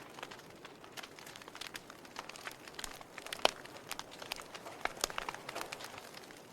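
Wood fire in a fireplace crackling steadily, with irregular sharp pops over a soft hiss and one louder pop about three and a half seconds in.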